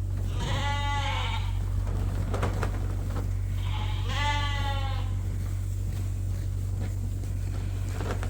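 Sheep bleating twice, a short bleat and then a longer one a few seconds later, over a steady low rumble.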